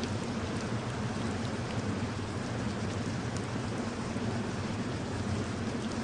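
Steady rain falling: a constant hiss with faint scattered drop ticks.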